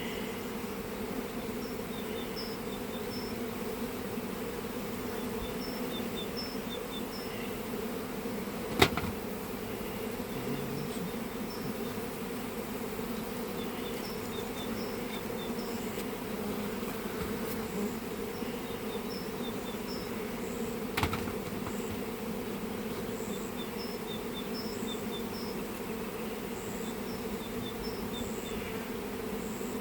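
Honeybees buzzing in a steady, massed drone around an opened hive. Two sharp knocks cut through it, about nine seconds in and again about twenty-one seconds in.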